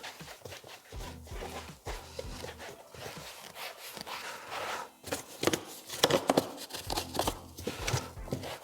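Handling noise from a car door panel: irregular clicks, taps and scrapes as the speaker mesh grille is pressed back into place, busier and louder in the second half.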